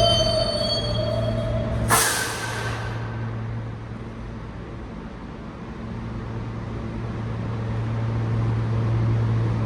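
R160 subway train squealing to a stop, the brake squeal cutting off about two seconds in with a sharp hiss of air from the air brakes. Then the stopped car's steady low hum, which fades midway and builds back up.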